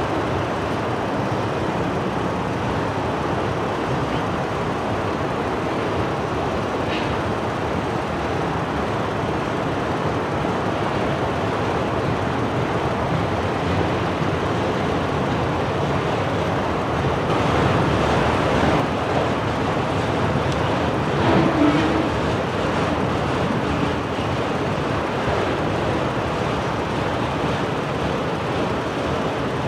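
Train rolling past: a steady rolling rumble of wheels on the rails, getting a little louder twice in the second half.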